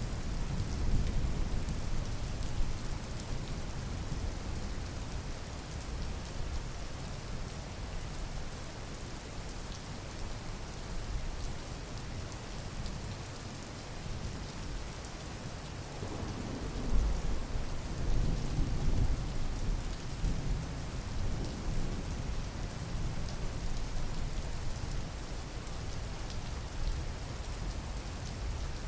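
Steady rain falling on a surface, with a low rumble that swells about halfway through and lasts several seconds.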